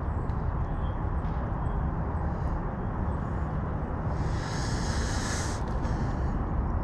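Steady low rumbling outdoor noise, with a brief high-pitched whir about four seconds in.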